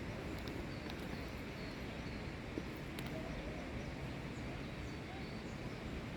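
Steady outdoor background rush, with a few faint, short bird chirps over it.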